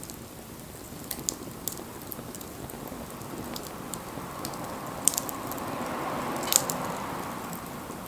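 Wood fire crackling, with scattered sharp pops, two louder ones in the second half. A soft hiss swells through the middle and fades near the end.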